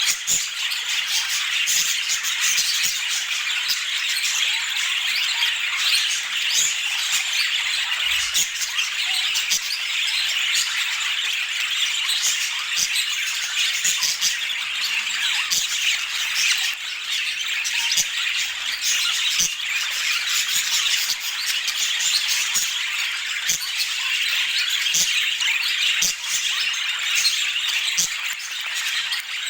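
Budgerigars chattering, a dense stream of chirps, warbles and squawks without pause.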